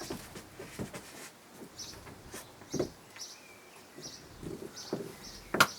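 A few short, scattered bird chirps, mixed with light clicks and knocks.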